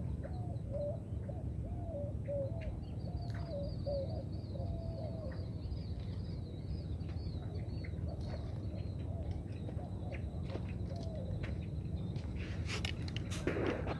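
Birds calling: runs of short, low, repeated notes, with a thinner high warbling call in between, over a steady low rumble. Near the end come a few sharp knocks and rustles close by.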